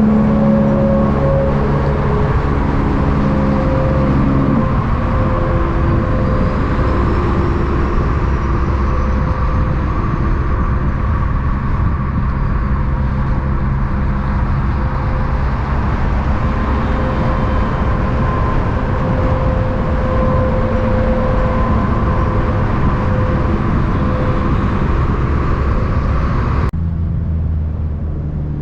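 Motor vehicle engine running steadily under heavy road noise, with an abrupt cut to a slightly different vehicle sound near the end.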